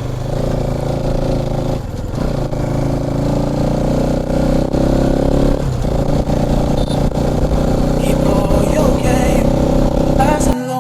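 Motorcycle engine running under way, its note dipping briefly about two seconds in and again around six seconds as the throttle eases and picks up. The engine sound cuts off abruptly just before the end.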